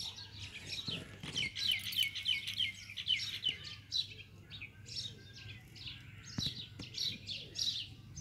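Small birds chirping: quick runs of short, high, falling chirps, several a second, busiest in the first half and continuing more scattered to the end.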